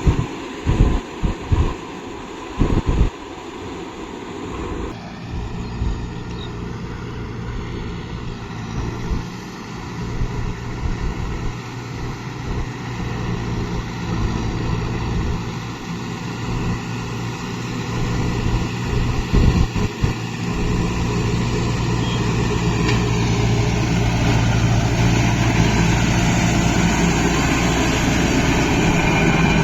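Kubota MU 5502 tractor's four-cylinder diesel engine running steadily under load while working a rotavator, with a few low thumps in the first seconds. The engine gets louder about two-thirds of the way through.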